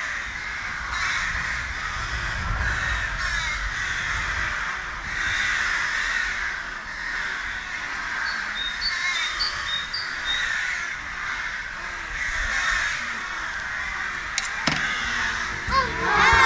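A loud, dense chorus of many birds calling over each other at once, with a few thin high chirps of a smaller bird midway.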